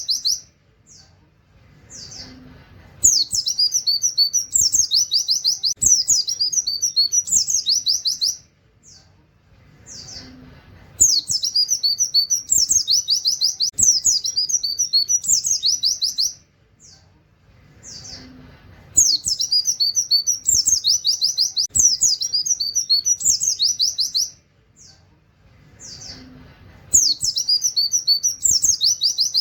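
White-eye (pleci) singing: loud, high, rapid phrases of 'wit wit' shots and canary-like trills, each lasting about five seconds. The same phrase returns about every eight seconds with short quiet gaps between.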